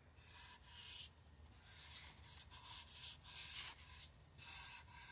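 Vinyl wrap being rubbed and smoothed down onto a tumbler: about four scratchy swipes, each a fraction of a second to a second long.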